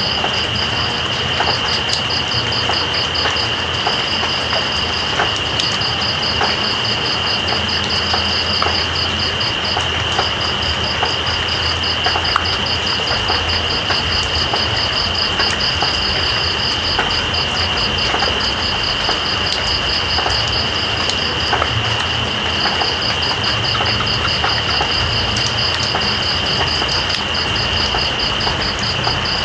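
Steady rain with scattered drop ticks, under night crickets calling: one a continuous high whine, the other a rapid pulsing trill that breaks off briefly a few times.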